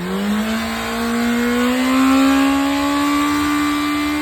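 Suzuki Hayabusa's inline-four engine revving through its exhaust: the pitch climbs quickly in the first second, then rises slowly and holds at high revs.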